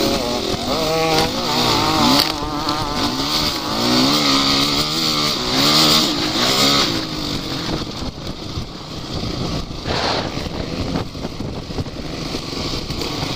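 Offroad vehicle engine revving up and down unevenly for about seven seconds, then running more steadily, with a short louder burst about ten seconds in.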